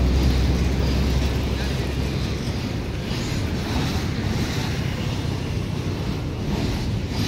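Empty BOBRYN open hopper wagons of a freight train rolling past, a steady rumble with faint repeated rattles of wheels and bodies. Wind noise on the microphone runs through it. A low hum fades out about two seconds in.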